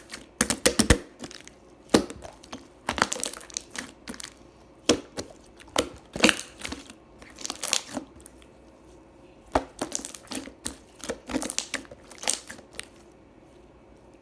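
Slime being squeezed and worked by hand, giving irregular bursts of wet clicks and pops, some in quick clusters, with short quiet gaps between.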